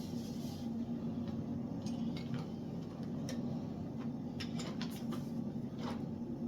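Light metal clinks and taps, about half a dozen scattered irregularly, typical of steel stock and tools being handled in a blacksmith's shop, over a steady low machine hum.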